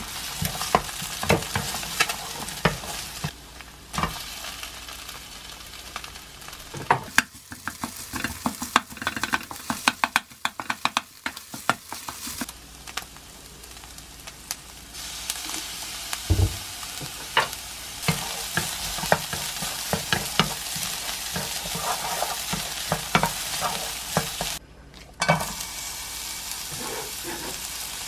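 Egg and rice frying in oil in a nonstick pan: a steady sizzle with frequent taps and scrapes of a wooden spatula stirring. The frying breaks off briefly near the end, then sizzles again.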